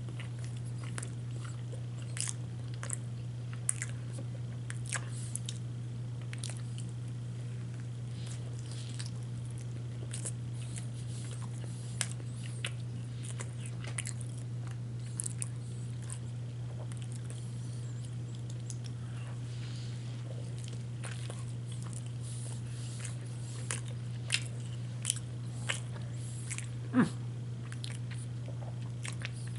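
Close-up eating of a chicken wrap: scattered wet mouth clicks and smacks of biting and chewing, with a sharper click about 27 seconds in. A steady low hum runs underneath.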